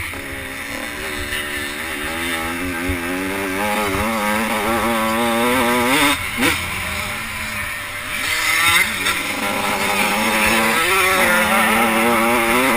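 85cc two-stroke motocross bikes racing, their engines revving up and down through the gears, with the pitch rising and dropping several times.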